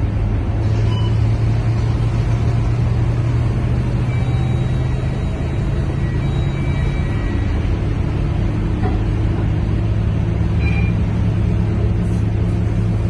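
Scania K230UB city bus's diesel engine running under load with a steady low drone, its pitch edging up near the end.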